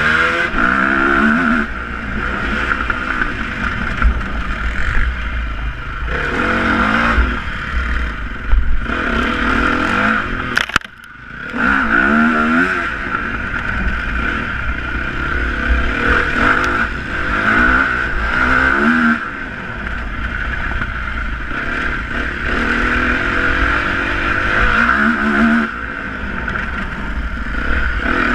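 Motocross dirt bike engines revving up and down over and over, the pitch rising and falling every few seconds. The sound cuts out briefly about eleven seconds in.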